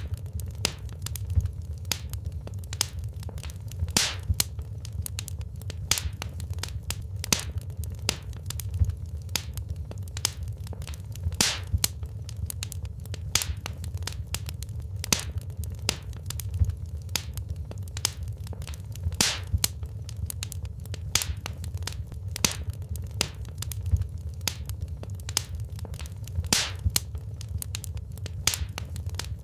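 Wood fire in a fireplace crackling and popping irregularly, with a few louder snaps, over a steady low rumble of the burning fire.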